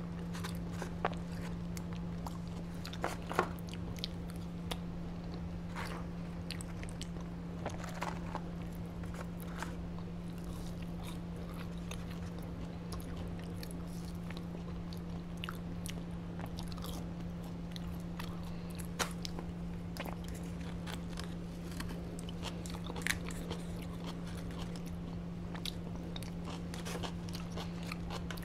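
Close-miked chewing and biting of fried chicken tenders and fries, with scattered small crunches and mouth clicks over a steady low hum.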